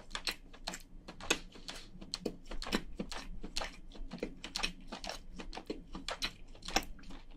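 A person chewing crayfish meat close to the microphone: a run of crisp, irregular mouth clicks, about three or four a second.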